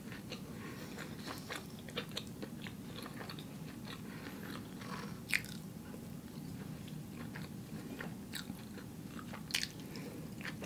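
A person chewing and biting crisp salad close to the microphone, quietly, with a steady patter of small mouth clicks and a few sharper crunches about halfway and near the end.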